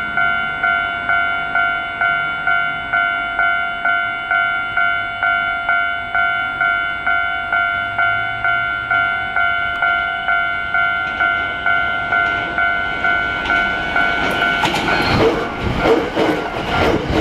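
Japanese railway level-crossing warning bell dinging steadily, about two strikes a second. Near the end a train arrives and passes, its wheels clattering over the rail joints and drowning out the bell.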